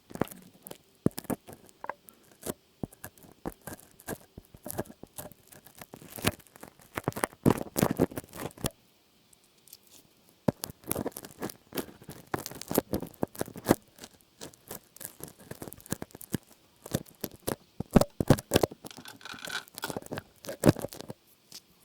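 Close-miked ASMR trigger sounds: quick, irregular crackling and tapping clicks, with a short pause about nine seconds in.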